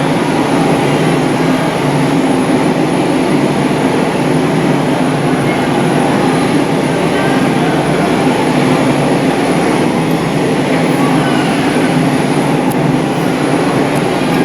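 McDonnell Douglas MD-82 jet airliner's engines and airflow during the takeoff climb, a steady loud rumble with a thin high whine that holds constant.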